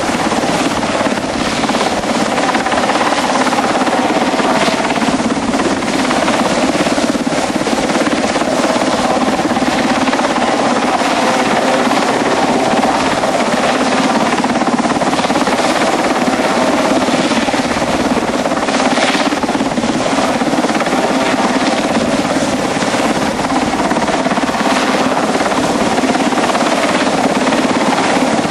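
RAF Westland Sea King helicopter, its twin turboshaft engines and main rotor running with a loud, steady, unbroken din.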